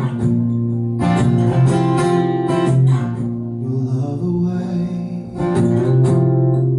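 Acoustic guitar strumming chords live, with a new strum about once a second, each chord left to ring.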